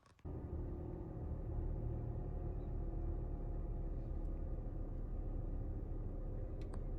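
A steady low rumble of a running vehicle, starting abruptly just after the start, with faint steady engine tones.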